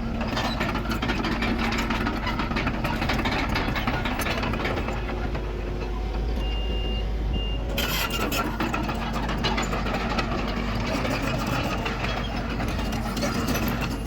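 Heavy earthmoving machine's diesel engine running steadily under metallic rattling. About halfway through, a high-pitched backup alarm sounds briefly: one longer beep, then a short one.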